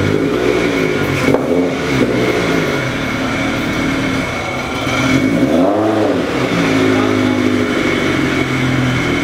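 Flat-four boxer engine of a widebody BRZ-platform coupe revving as the car rolls slowly by, its pitch rising and falling with several throttle blips, the biggest one a little past the middle.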